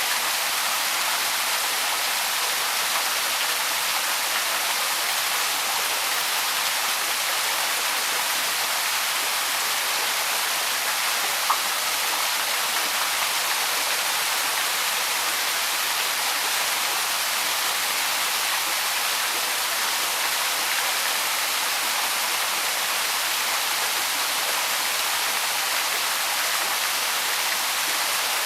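Small waterfall rushing in a steady, even splash of falling water, with one brief click about halfway through.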